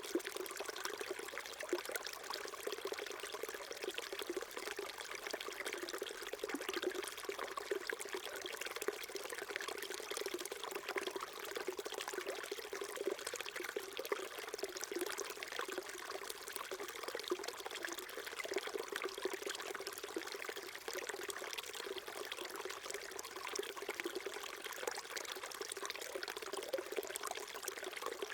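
Small mountain stream flowing steadily, water trickling and babbling over stones.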